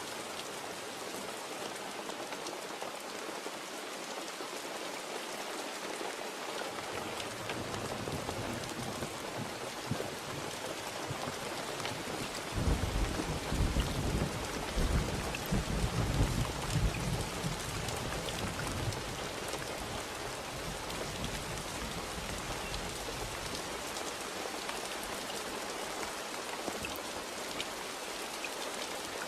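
Steady rain hissing, with a long roll of thunder that builds about seven seconds in, is loudest around the middle, and fades away in the last few seconds.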